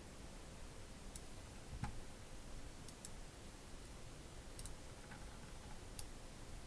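Faint, scattered computer mouse clicks, about half a dozen at irregular intervals, over a low steady room hum.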